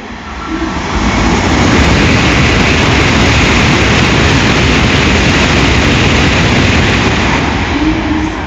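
A Shinkansen train passing through the station at speed without stopping: a loud rush of wind and rolling noise that swells about a second in, holds steady, then fades near the end.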